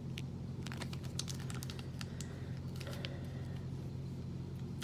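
Plastic snack-bar wrapper being handled, giving irregular light crinkling ticks, over a steady low hum.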